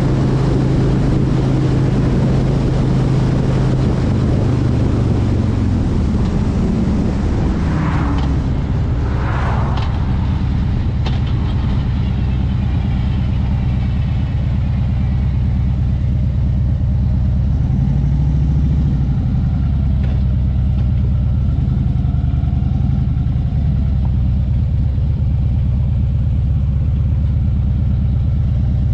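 Motorcycle engine running steadily under way, its pitch dropping about six seconds in. Two brief higher-pitched sounds come about a third of the way through.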